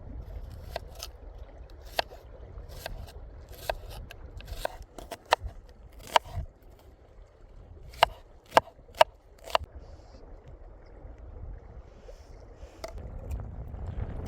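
Irregular sharp knocks and clicks, with three loud ones close together just past the middle, over a low, steady rumble.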